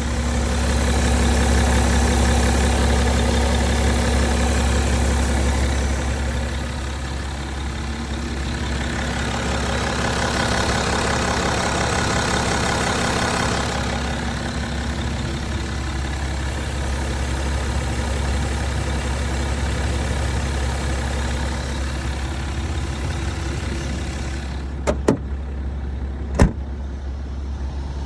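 BMW 530 xDrive F11 engine idling steadily with the bonnet open. Near the end, two sharp knocks about a second and a half apart.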